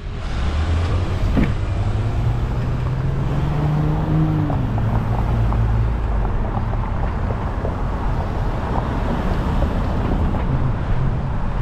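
City road traffic heard from a moving bicycle: a steady low rumble with a nearby motor vehicle's engine humming, its pitch rising and then falling about four seconds in.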